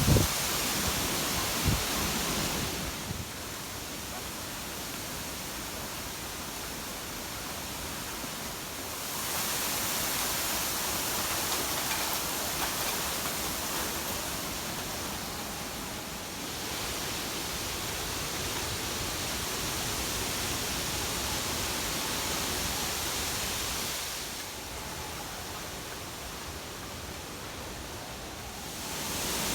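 Steady rushing storm noise of Typhoon Hagibis, swelling louder and softer in long stretches of several seconds, with a short low knock near the start.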